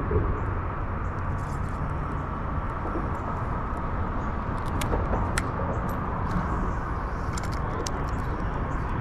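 Steady low rumbling outdoor noise with a few faint sharp clicks about halfway through.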